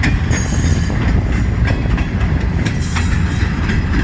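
CN freight train cars rolling past close by: a steady low rumble with irregular clicks of wheels over rail joints, and a faint high wheel squeal near the start.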